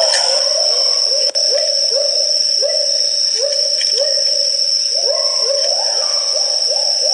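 Great argus pheasant calling: a series of short upward-sliding hoots, about two a second, coming faster near the end, over a steady high-pitched whine.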